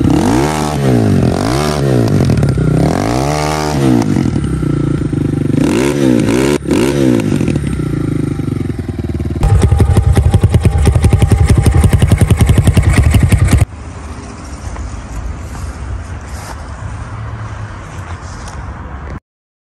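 Pit bike's 250 cc single-cylinder four-stroke ZongShen engine with a tuned exhaust, revved in short blips about six times, then settling to a steady idle. From about 9 s to 14 s it is much louder, with fast even firing pulses, before dropping back to a quieter idle that cuts off abruptly near the end.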